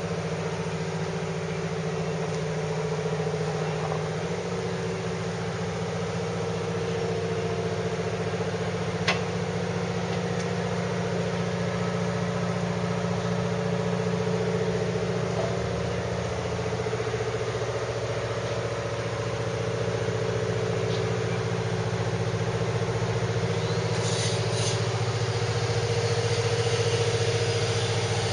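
A steady low mechanical hum, like a motor running, with one sharp click about nine seconds in.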